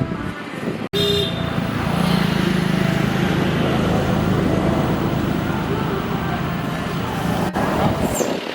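Road traffic noise with a motor vehicle engine running close by, a steady low hum under a dense wash of noise. It is broken by a sudden brief cut-out about a second in.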